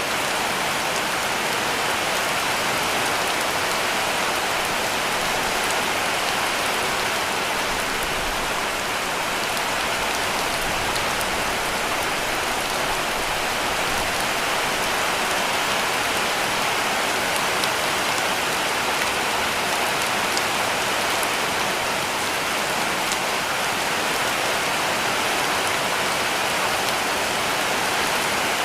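Heavy rain falling steadily on a cabin roof: a dense, even hiss with occasional distinct drop ticks standing out.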